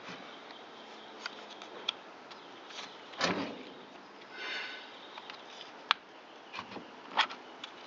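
Scattered small clicks, taps and a brief scrape of plastic and metal chainsaw parts being handled by hand during disassembly, with a few sharp clicks in the second half.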